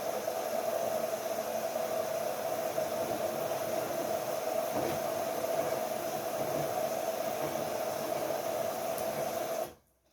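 LG Direct Drive 8.5 kg washing machine running mid-cycle: a steady rushing noise with a steady hum under it, cutting off abruptly near the end.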